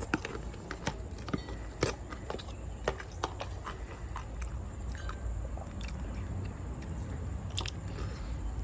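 A person chewing a mouthful of salad with cucumber and tomato: irregular wet crunches and mouth clicks, most frequent in the first few seconds, then thinning out.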